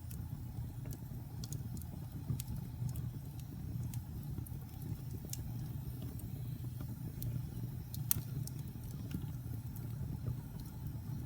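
Fire burning in a fireplace: a steady low rumble of flames with scattered sharp crackles and pops, the loudest pop about eight seconds in.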